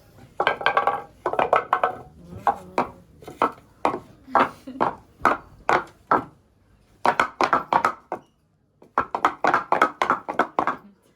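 Wooden clogs clacking on the floor as the wearer runs and steps in them: a string of sharp wooden knocks, irregular at first, a short pause about eight seconds in, then a quicker run of clacks.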